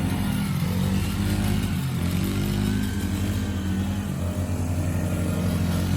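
Engine of a kids' four-wheeler running as it rides the track, its pitch wavering a little.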